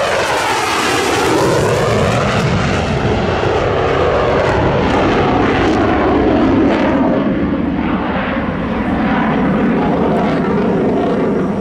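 Twin-engine fighter jet making a low flyby: a loud, continuous jet roar with a sweeping, phasing whoosh that rises and falls in pitch as the aircraft passes.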